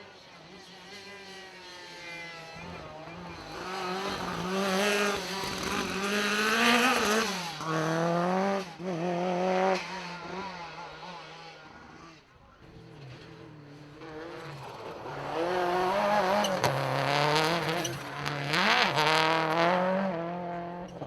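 Rally car engines revving hard as cars come through the stage, the pitch climbing and dropping again and again with gear changes and lifts off the throttle. There are two loud passes, one in the first half and another in the second half.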